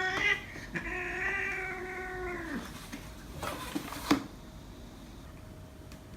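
Cat yowling in a fight: one call breaks off just after the start, then a long, steady yowl of nearly two seconds drops in pitch at its end. A short hissing noise follows, with a sharp knock about four seconds in.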